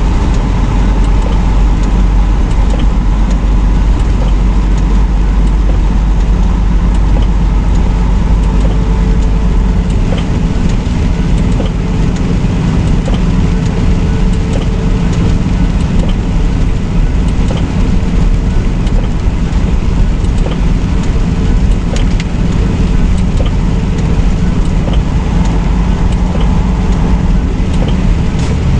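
Semi-truck cab noise while driving: a steady engine drone and road rumble. The deepest part of the rumble eases about ten seconds in.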